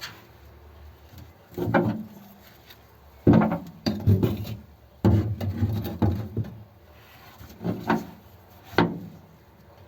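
Irregular knocks and scrapes of tools and parts being handled, in about half a dozen separate bursts.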